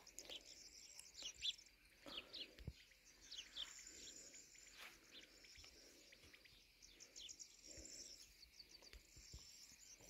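Faint birdsong: small birds chirping with many short, high, quickly repeated notes and buzzy trills, with a few soft knocks.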